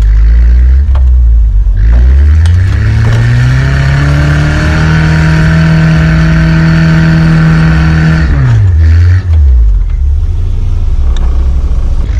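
Off-road vehicle engine revving up under load, holding high revs for about four seconds, then dropping back quickly, over a steady low rumble.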